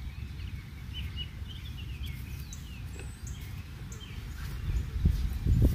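Small songbirds chirping and twittering repeatedly over a low rumble of wind on the microphone, the rumble swelling louder near the end.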